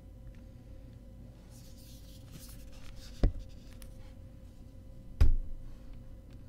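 Hands handling box-set contents: soft paper or card rustling, then two sharp knocks, about two seconds apart, as items are set down.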